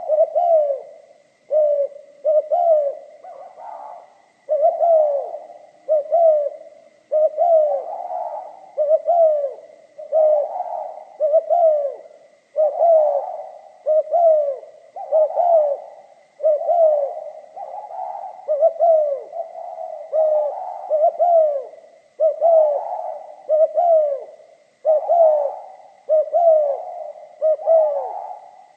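Spotted dove (cu gáy) cooing over and over in the 'pha kim' voice, short phrases of falling coo notes following one another with barely a pause. A faint steady high tone sits beneath.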